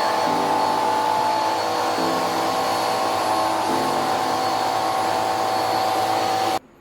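2-in-1 stick vacuum cleaner running: a steady high motor whine over rushing air, cut off suddenly near the end as it is switched off.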